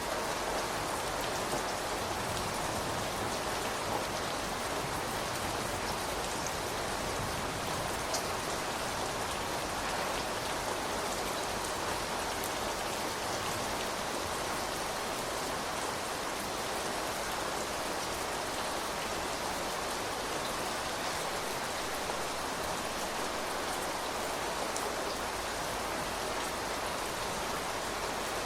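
Steady rain falling on surfaces, an even hiss with scattered individual drops ticking.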